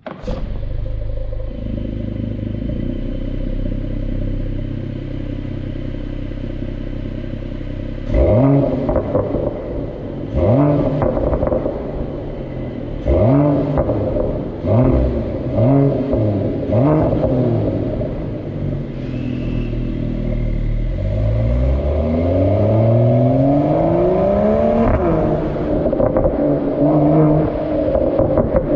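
Mercedes-AMG E53's 3.0-litre turbocharged inline-six starting up and idling steadily. It is then revved in a series of short blips, and finally given a long rising rev that levels off at a higher steady pitch near the end.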